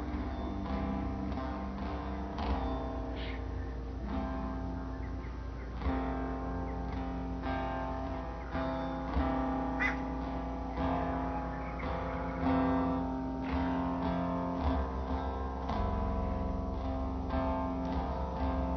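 Background music played on acoustic guitar, plucked and strummed notes ringing on.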